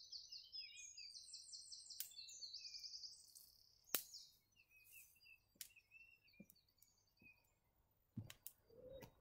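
Faint songbird song: quick runs of high, trilled notes for the first few seconds. After that a wood fire gives a few sharp crackling snaps, and there are soft footsteps near the end.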